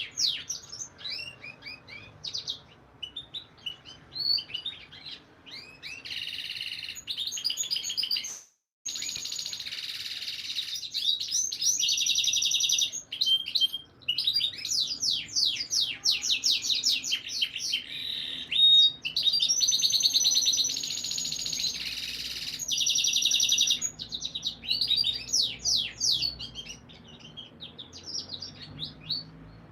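Male domestic canary singing: long, fast trills and rolls of repeated sweeping notes, some held as buzzy tours, with a brief break about eight seconds in.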